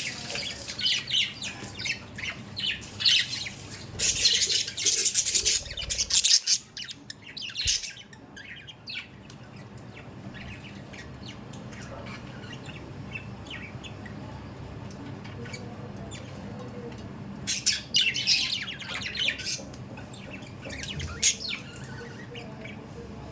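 Budgerigars chirping and squawking, in loud bursts of dense high-pitched chatter through the first six seconds and again about eighteen and twenty-one seconds in, with softer twittering between.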